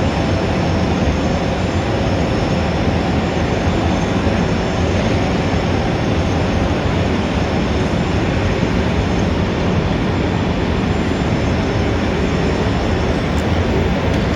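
Dense city traffic ambience: a steady, loud rumble of many vehicles with a few faint steady tones running through it.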